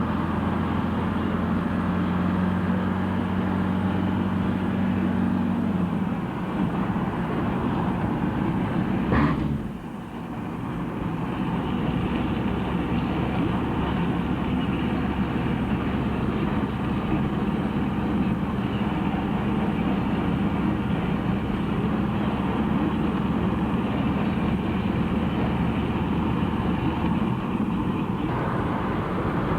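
A vehicle running, with steady engine and road noise. The low engine note shifts about six seconds in, and there is a short knock a little after nine seconds.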